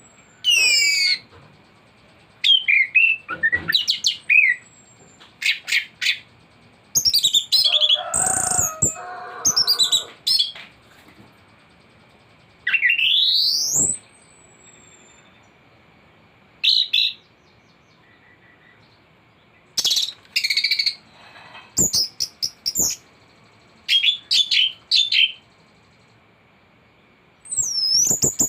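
An anis thrush singing a varied song crammed with mimicked calls: bursts of whistles, sweeping notes and chatter separated by short pauses, one phrase a long rising whistle. A faint steady high tone sits underneath.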